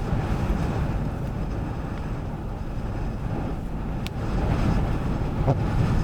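Ocean surf washing against the shore, mixed with wind buffeting the microphone as a low, uneven rumble; a single sharp click about four seconds in.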